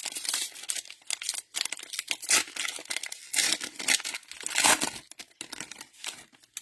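Cellophane wrapper of a Panini Mosaic football card cello pack being torn open and crinkled: a dense run of crackling that thins out near the end.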